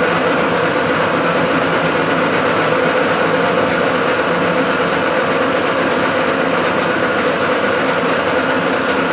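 Metalworking machine tool running steadily under cut, a constant mechanical hum with a few steady tones and no change in pitch or level.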